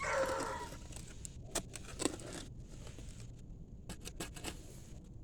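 A dog barks once, a drawn-out bay of about a second, followed by a few faint sharp knocks.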